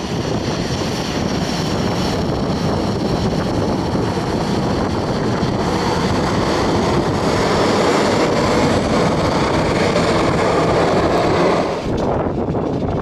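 Jet airliner engines running loud and steady, mixed with heavy wind buffeting on the microphone; the noise swells a little in the middle and drops suddenly near the end.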